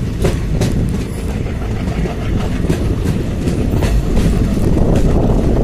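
Train running at speed, heard from on board: a steady, loud rumble of wheels on the track, with sharp clicks now and then as the wheels pass over rail joints.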